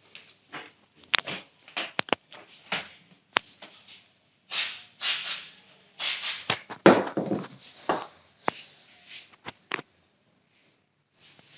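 A scatter of sharp clicks and knocks with several short bursts of noise, the loudest about five and seven seconds in.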